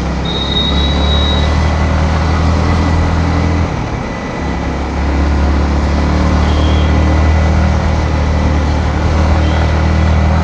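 Yamaha MT-15 V2's 155 cc single-cylinder engine running steadily under way, heard over wind and road noise. It eases off about four seconds in, then pulls steadily again.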